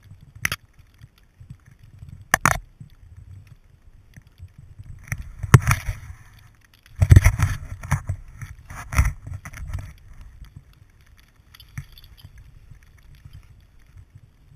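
Scuffing, knocks and thumps of a dog romping in snow, heard through a GoPro Hero 2, over a low rumble. There are sharp knocks near the start and about two and a half seconds in, and the busiest scuffling comes between about five and ten seconds in.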